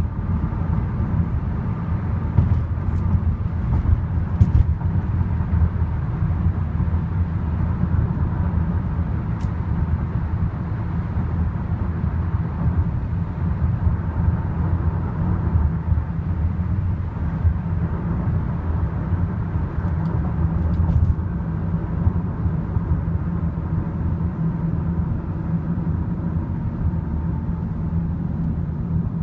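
Loaded grain freight train rolling past, a steady low rumble that holds level throughout, with a few faint clicks.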